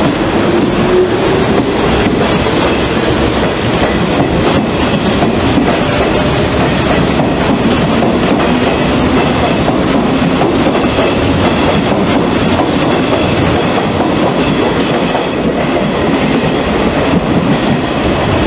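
Hanshin Railway electric train running along the platform, with steady wheel-and-rail noise, wheels clicking over rail joints and a faint drifting motor tone.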